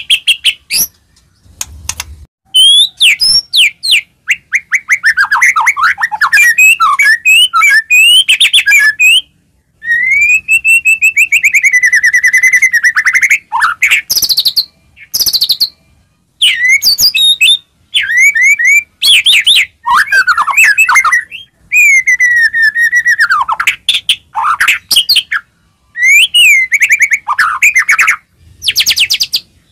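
White-rumped shama (murai batu) in loud, continuous full song: quick runs of rapid trills and sweeping whistled notes, broken by short pauses between phrases.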